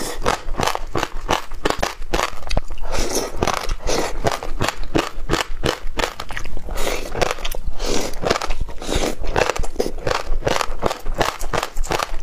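Close-up chewing of a mouthful of passionfruit seeds: a dense, rapid run of crisp crackling crunches.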